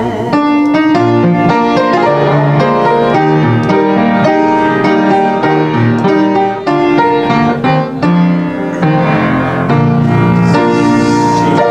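Piano playing a slow hymn alone, chords struck one after another, with no singing.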